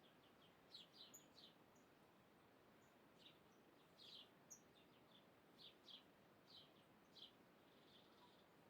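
Faint short bird chirps, a dozen or so at irregular intervals, over a steady low background hiss.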